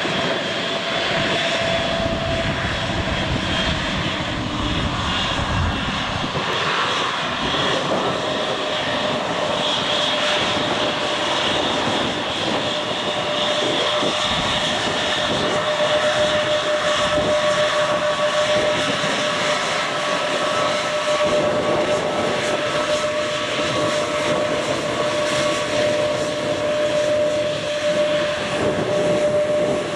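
Airbus A321neo jet engines running at taxi power: a steady whine over a broad rush, the whine settling slightly lower in pitch within the first few seconds.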